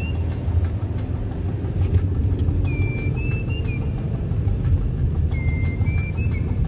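A car driving on an asphalt road: a steady low rumble of engine and road noise. A faint melody of high held notes that step up and down runs over it.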